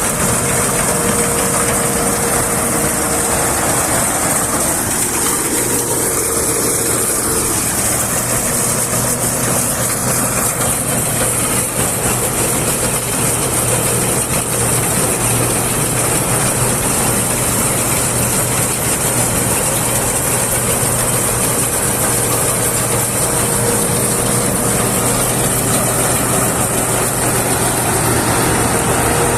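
Combine harvester's diesel engine and machinery running steadily, a loud even drone with a constant hum and a bright hiss over it.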